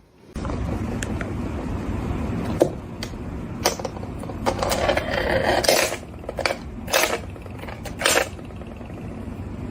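A run of clattering knocks, like hard household objects or dishes being bumped and rattled, about half a dozen over a steady background noise.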